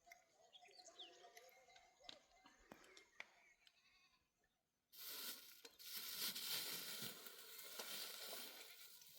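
Faint goat bleats and a few clicks, then a brief hush; about five seconds in a louder, steady rustling noise starts suddenly and is the loudest sound.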